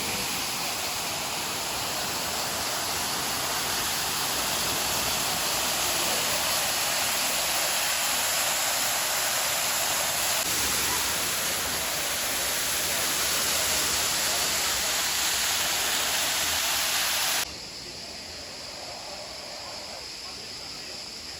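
Steady rush of flowing water, like a waterfall or fast stream, which cuts off abruptly about three-quarters of the way through, leaving a quieter background.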